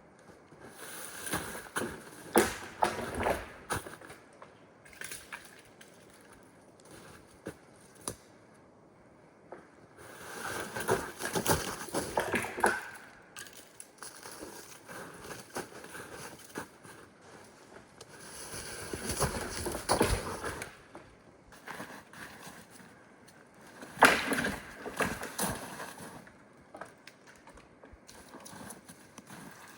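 Four bursts of crunching and rustling, each lasting about two seconds, with quieter gaps between them.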